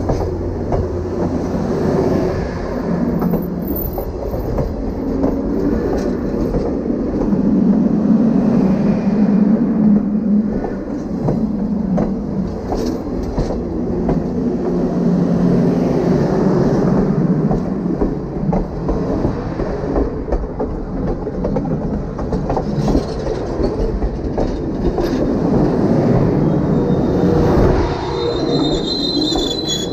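Grand Canyon Railway passenger cars rolling directly overhead: a loud, steady rumble of steel wheels on the rails with many sharp clicks. Near the end a high wheel squeal comes in and the sound begins to fade.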